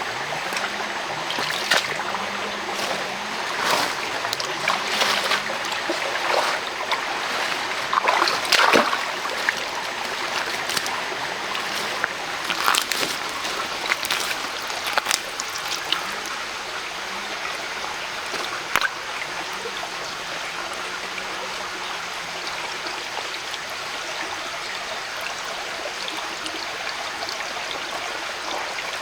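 Mountain stream running steadily, with scattered short sharp splashes and knocks, most of them in the first two-thirds.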